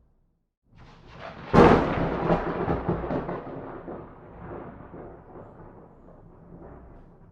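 A thunderclap: a rumble begins about a second in, a sudden loud crack follows, then a rolling rumble that slowly fades away.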